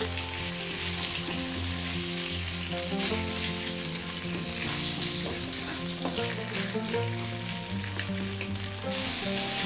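Marinated pork pieces sizzling in hot oil in a wok, turned with a wooden spatula that clicks against the pan a few times. Background music with held notes plays underneath.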